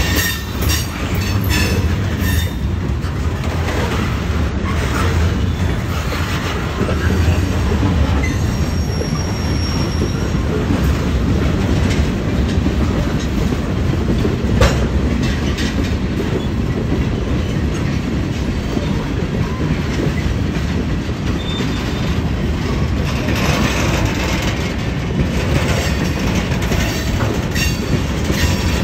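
Norfolk Southern freight train's cars rolling past at close range: a steady, heavy rumble of steel wheels on rail, with clicks as wheels cross rail joints and a brief high wheel squeal about nine seconds in.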